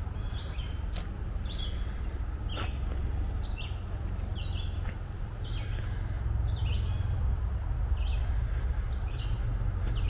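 A songbird calling over and over in short, often paired high notes, about one call a second, over a steady low rumble of wind noise on the microphone.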